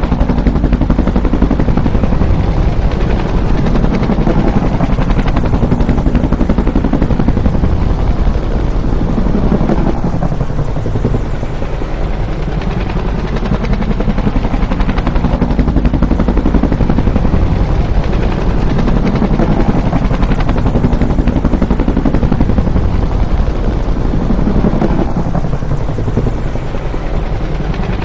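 Bell UH-1 Huey helicopter, its two-bladed main rotor beating loudly in a continuous rapid chop, swelling and easing slightly every few seconds.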